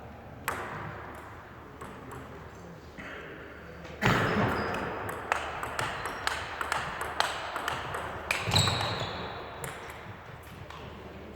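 Table tennis rally: the celluloid-type ball clicks sharply off rubber bats and the table in a quick irregular run of hits. It starts about four seconds in and stops near the end, with one lone hit about half a second in.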